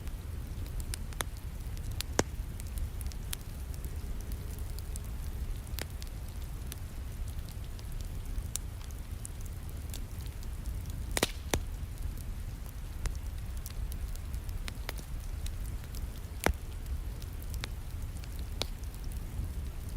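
Wood fire crackling and popping, with sharp pops scattered irregularly over a steady low rumble and a soft hiss of rain.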